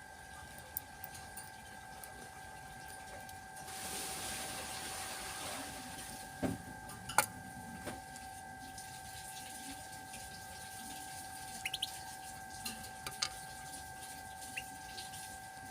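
Trickling water with a steady two-pitched whine, like a small water pump. A louder rush of water comes about four seconds in and fades within a couple of seconds. Scattered sharp clicks and taps, the loudest about halfway, and a few faint short chirps near the end.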